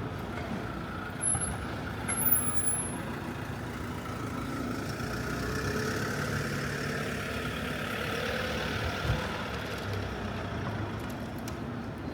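City street traffic: a heavy vehicle's engine draws near and passes, swelling in the middle and then fading, with a brief high squeal about two seconds in.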